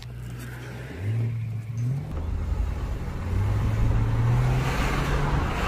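GMC Envoy's Vortec 4200 inline-six pulling away and accelerating, revving up, dropping at a gear change about two seconds in, then climbing again, with noise rising as road speed builds. Under it is a metal-to-metal growl from the front drivetrain that grows louder with speed, which the mechanic puts down to the front differential or the front hub bearings.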